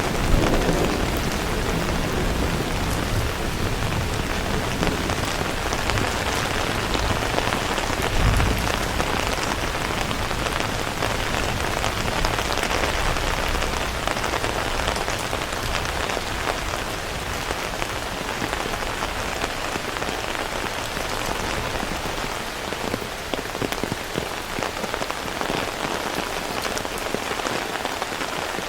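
Heavy rain falling steadily, a dense hiss of drops on surfaces. A low rumble sits under it for the first several seconds, with a brief low thump about eight seconds in.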